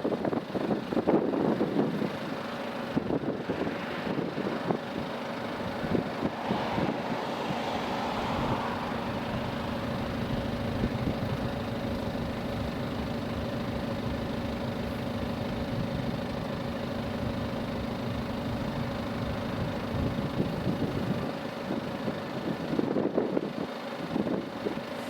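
Boeing 737 jet engines running with a steady hum, with wind buffeting the microphone at the start and again near the end.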